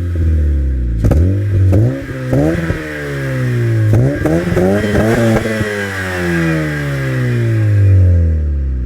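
Honda Civic FD1's 1.8-litre four-cylinder engine through a custom Kent Works exhaust, revved in a string of quick blips, then the revs falling away slowly over the last few seconds.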